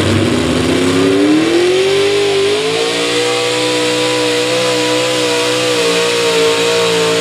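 Truck-pull pickup's engine revving up over about the first three seconds, then holding steady at high revs as it pulls down the track.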